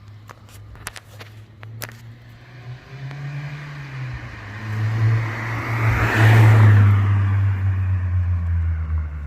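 Acura RSX Type S with a Yonaka catback exhaust driving past, its four-cylinder engine note with a deep exhaust tone. It grows louder to a peak about six to seven seconds in, then fades as the car moves away. A few faint clicks sound near the start.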